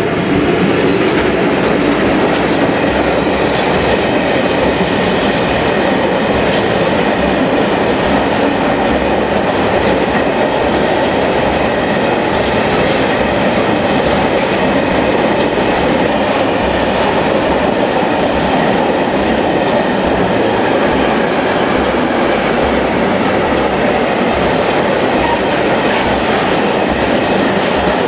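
Freight train of high-sided open wagons rolling past close by: a loud, steady rumble and clatter of steel wheels on the rails. It swells in the first second, then holds steady.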